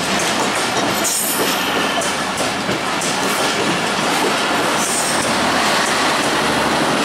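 Bangladesh Railway intercity passenger coaches rolling past close by, wheels clattering over the rail joints in a steady rumble. Brief high-pitched wheel squeals come about a second in and again near five seconds.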